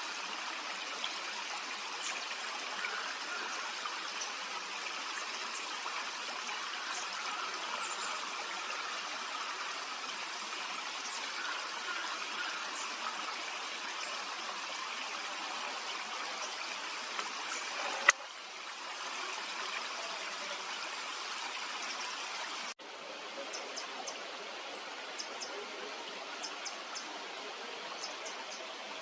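Steady rush of running water from a stream, with faint, short, high calls of small birds now and then, more of them near the end. A sharp click comes about 18 seconds in.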